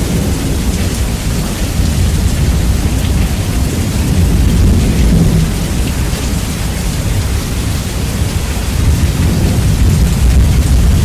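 Steady rain with thunder in a heavily bass-boosted recording, so the low end dominates the hiss of the rain. It swells slightly about four seconds in and again near the end.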